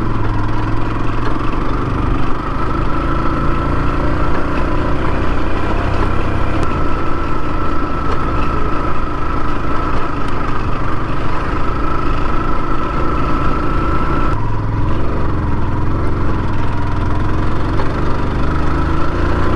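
Yamaha R15 V2's single-cylinder engine running steadily, its note shifting abruptly about fourteen seconds in.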